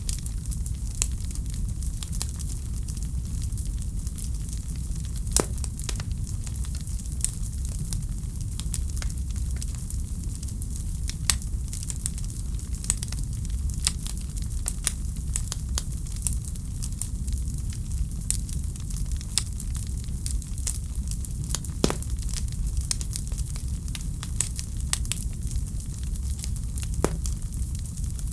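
Wood fire in a fireplace crackling: irregular sharp pops and snaps, a few louder than the rest, over a steady low rumble and hiss.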